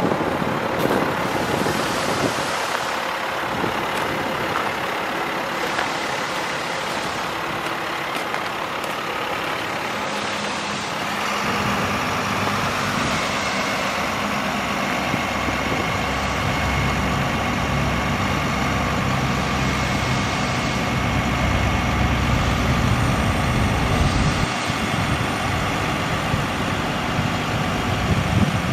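Truck diesel engine running steadily, likely the International DT466, with wind on the microphone in the first seconds; from about halfway a steadier low rumble sets in, joined by a thin steady whine.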